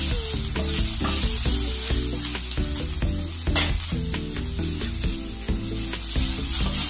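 Chicken, prawns and mustard greens sizzling in hot oil in a frying pan, pushed around with a spatula that scrapes now and then. Background music with a melody of short notes plays under the sizzle.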